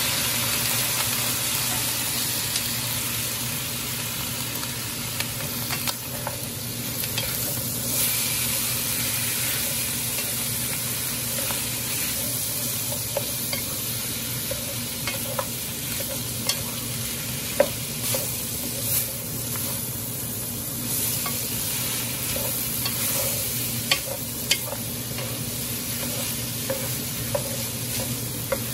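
Chopped pork and onions sizzling in hot oil in an aluminium pot while being stirred and turned with a wooden spatula; a steady frying hiss with the scrape of the stirring. A few sharp knocks of the spatula against the pot in the second half.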